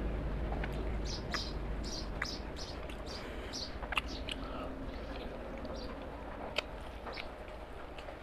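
Close wet chewing and lip-smacking of a person eating mutton curry with rice by hand: frequent short smacks and squelches, several a second, over a low steady hum.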